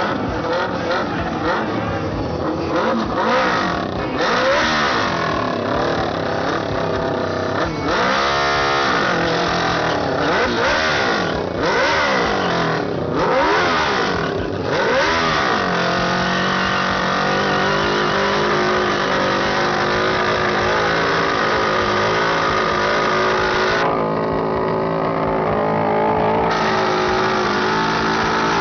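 Motorcycle engine revved hard during a burnout, its pitch rising and falling repeatedly, then held at steady high revs from about halfway through.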